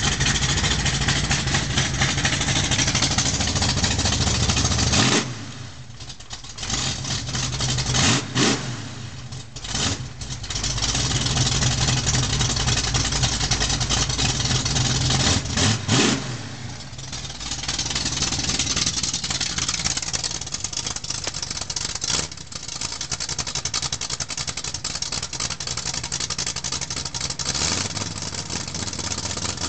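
Bored-over Oldsmobile 455 big-block V8 running on race fuel. It runs loudly, drops sharply in level about five seconds in, then comes back with several quick throttle blips. Another few blips and a dip follow around sixteen seconds before it settles into a steady run. The idle is not yet under control.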